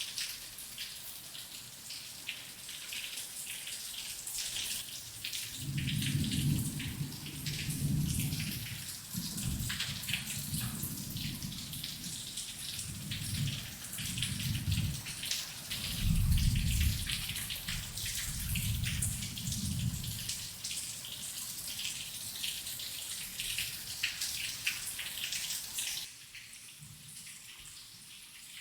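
Heavy rain falling, a dense crackle of drop hits, with low thunder rolling in several swells through the middle. Near the end the rain abruptly turns quieter.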